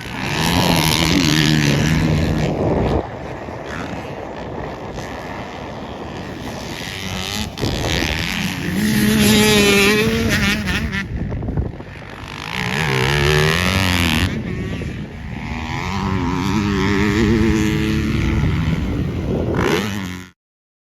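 Motocross dirt bike engines on a track, revving up and backing off in repeated surges as the bikes accelerate and slow. The sound cuts off suddenly near the end.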